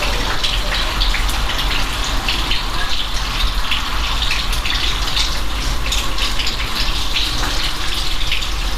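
Steady rain: a dense, even hiss with many small, sharp drop impacts standing out, and a steady low hum underneath.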